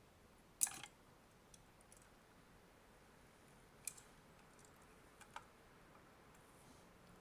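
Sharp, isolated clicks of tweezers and small parts being handled during fiddly work inside a Nintendo Switch AC adapter, otherwise near silence. One loud click comes just over half a second in, another near four seconds, and a couple of faint ticks after five seconds.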